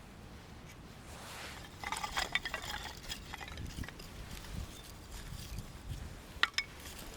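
Light clinks and taps of camp kitchenware being handled: a cluster of clinks about two seconds in, then two sharp clicks near the end.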